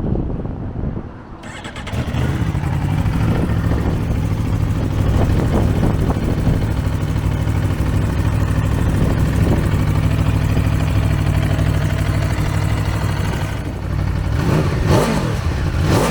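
Aprilia Tuono V4 Factory's V4 engine starting about a second and a half in, then idling steadily, with a quick rev up and back down near the end.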